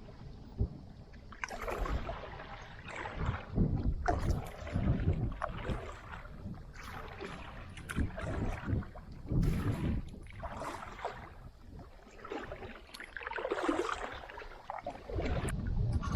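Kayak paddle strokes splashing and dripping in the river, irregular, roughly one a second, with wind rumbling on the camera's built-in microphone.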